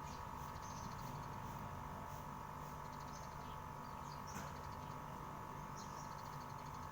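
Small birds chirping faintly: short high calls and quick ticking trills every second or so, over a steady hum.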